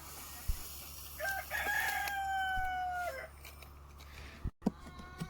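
A rooster crowing once: a short opening note, then a long held note of about two seconds that sags slightly in pitch before breaking off.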